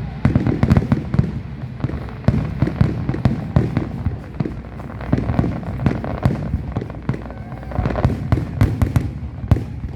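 Aerial fireworks going off in a rapid, continuous barrage: many sharp bangs in quick succession over a steady low rumble, typical of the closing stretch of a display.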